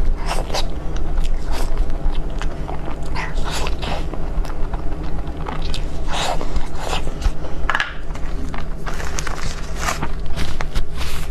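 Close-miked eating sounds of desserts: irregular bites and wet chewing, mouth clicks and smacks, over a steady low hum.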